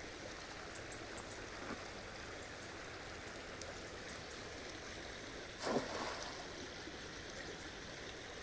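River water flowing steadily, with one short, louder sound about five and a half seconds in.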